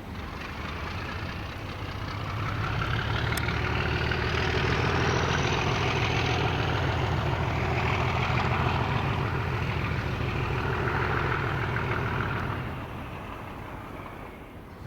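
Heavy diesel train engine running with a deep, steady throb. It grows louder over the first few seconds, holds, then drops away about three seconds before the end.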